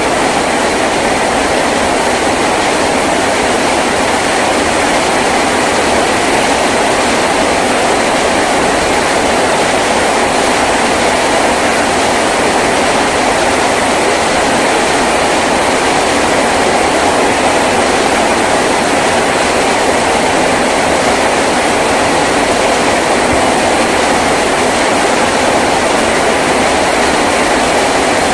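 Heavy rain drumming steadily on a tin roof, a dense unbroken patter with no let-up.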